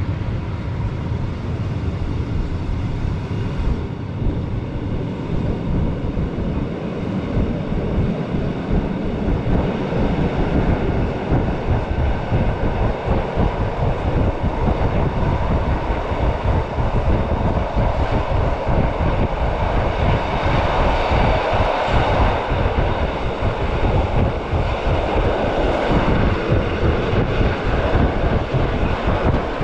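Rhaetian Railway train running along the track: a steady rushing rumble that grows louder about two-thirds of the way through.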